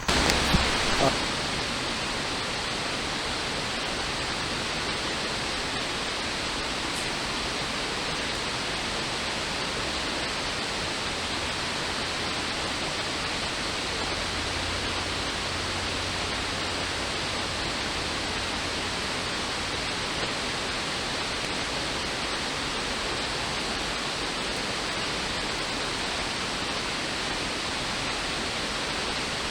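Creek water rushing steadily, an even hiss that holds the same level throughout.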